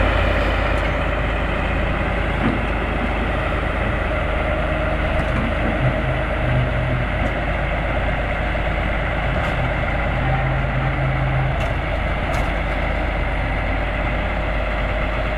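Heavy diesel earthmoving machinery running steadily: a loud, constant engine drone with a few short low hums swelling over it around the middle.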